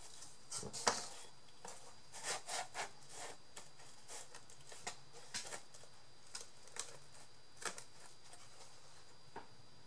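Paper and cardboard being handled: scattered rustles, rubs and light taps, with one sharper click about a second in.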